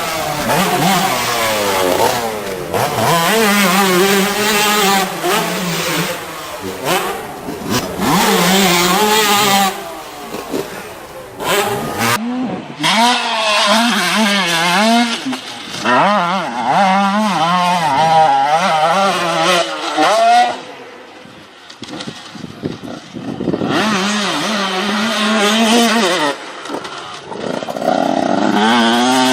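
125cc two-stroke motocross bike engines revving hard, pitch climbing and dropping again and again as the riders work the throttle and shift gears. The sound changes abruptly about twelve seconds in and falls quieter for a couple of seconds past the twenty-second mark.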